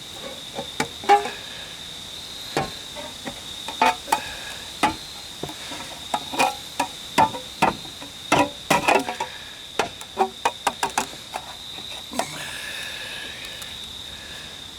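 Irregular sharp metal taps and knocks as the top of an old cardboard-and-metal quart oil can is stabbed open with a bayonet and the can is handled. A steady high cricket trill runs underneath.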